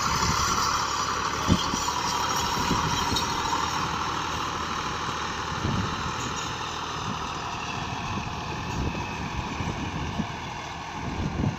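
Massey Ferguson 260 tractor's diesel engine running steadily under load while pulling a disc harrow, gradually fading.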